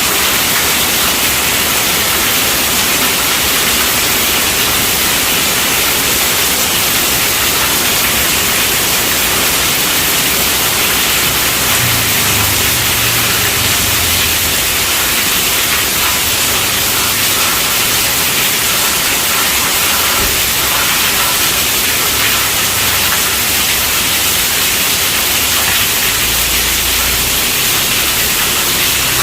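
Heavy rain pattering on a tent roof: a steady, dense hiss that does not let up. Brief low rumbles come in about twelve seconds in and again near the end.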